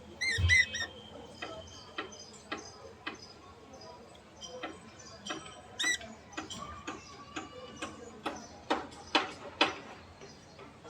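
Budgerigars chirping and chattering in short calls and clicks, with a louder run of chirps in the first second and a sharp call about six seconds in.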